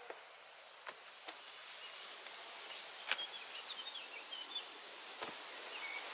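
Outdoor rural ambience: a steady high-pitched insect drone, with small birds chirping a few times midway and several sharp clicks.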